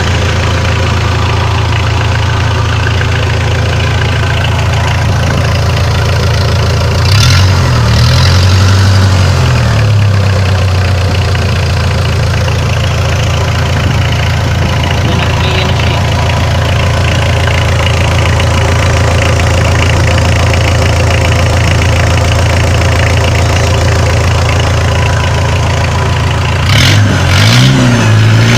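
Freshly overhauled Mitsubishi 4D56T four-cylinder turbodiesel idling steadily, blipped up in revs about seven seconds in and again near the end, each time dropping back to idle.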